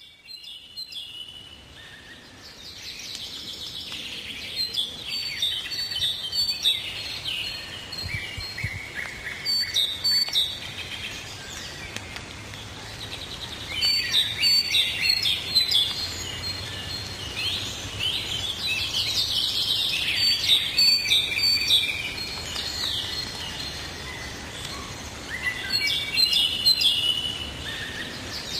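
Songbirds chirping and singing, many short calls and trills overlapping throughout.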